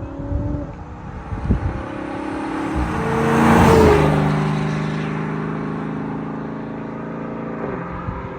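V8 muscle car accelerating in a light roll-on pull from about 40 mph, the exhaust note rising in pitch and growing loudest as it passes about four seconds in, then holding a steady drone as it moves away.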